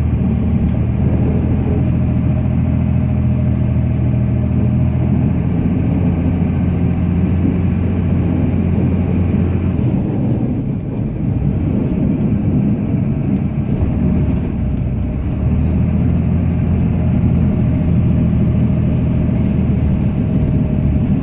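Cummins inline-six turbo diesel in a Ram pickup running under load while plowing snow, heard from inside the cab. Its steady note drops away for a few seconds about halfway through, then comes back strong.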